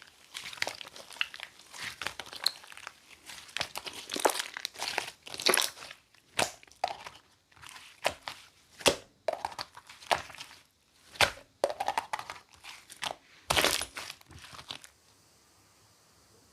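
Light-blue slime mixed with cloud clay being squished and pressed by hand: irregular sticky crackling, pops and clicks, which stop shortly before the end.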